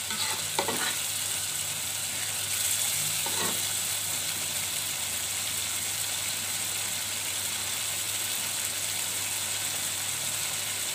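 Chili sambal with fried eggs sizzling steadily in a wok, with a metal spatula scraping the pan briefly near the start and once more about three seconds in.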